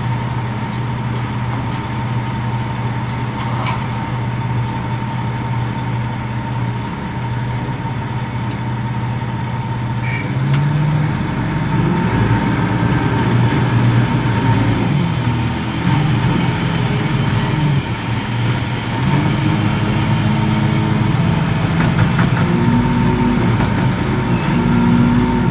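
Diesel engine of a container reach stacker, running at a steady idle and then, from about ten seconds in, revving up and down again and again as the machine works. A thin steady whine sits above the engine throughout.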